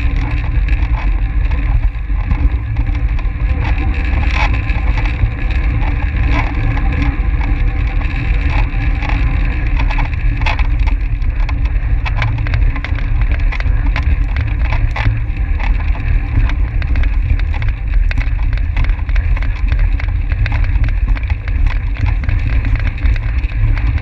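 Wind buffeting a bike-mounted camera's microphone while a track bike races at speed, with a steady hum from tyres and drivetrain and scattered sharp ticks.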